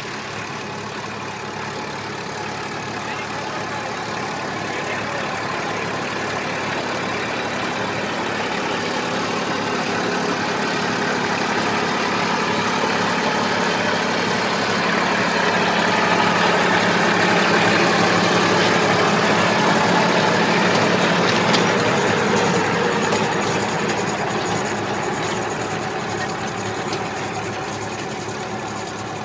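Massey Ferguson 1035 DI tractor's three-cylinder diesel engine running steadily. It grows gradually louder to a peak about two-thirds of the way through, then fades a little.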